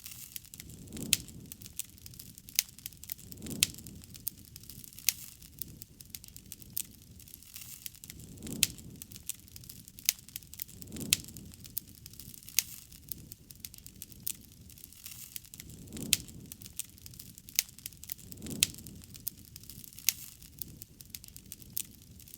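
Campfire burning, with frequent sharp crackles and pops from the wood and soft low whooshes every few seconds.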